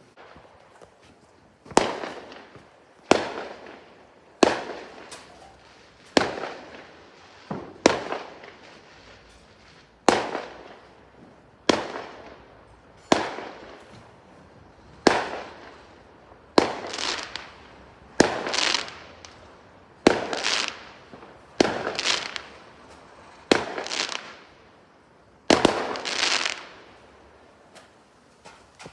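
Fireworks bursting one after another, a sharp bang about every second and a half, many followed by a short crackling fizz that dies away.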